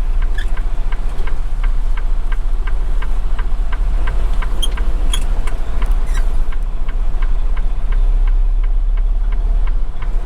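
Semi-truck's diesel engine running at low speed, a steady low rumble with a regular ticking about four times a second.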